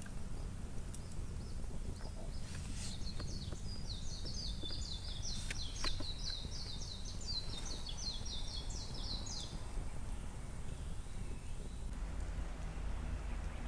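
A bird singing a fast, even run of short, high, downward-slurred notes for about seven seconds, over a steady low outdoor rumble.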